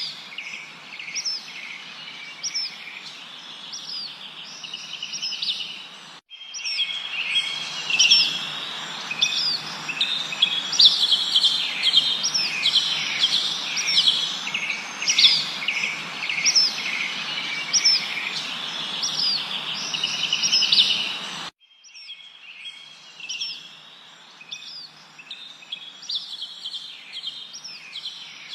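Many birds chirping, with short repeated notes and quick down-slurred whistles, over a steady background hiss. The recording cuts abruptly to a louder, busier chorus about six seconds in, then to a sparser one about two-thirds of the way through.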